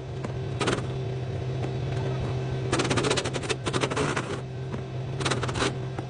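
Impact wrench rattling in short bursts as silo ring bolts are run out, with a long burst in the middle and a shorter one near the end, over a steady low hum.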